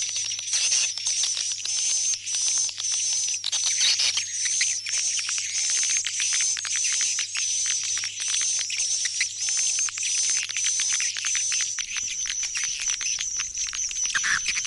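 Swiftlet calls from a swiftlet-house lure recording, used to draw the birds back to the nesting house: a dense, high twittering chatter that pulses evenly about twice a second. A faint low hum underneath stops about twelve seconds in.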